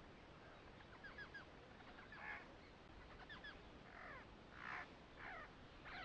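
Faint birds calling in the background: small runs of short falling chirps, and a few broader, harsher calls, over a quiet room tone.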